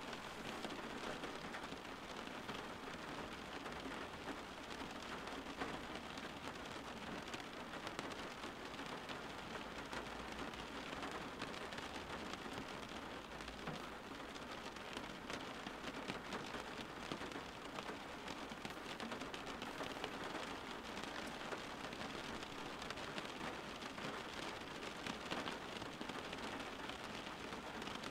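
Steady rain: an even hiss with a fine patter of individual drops.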